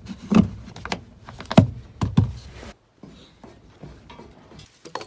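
A series of knocks and clunks, about four sharp ones in the first three seconds, then quieter handling noises.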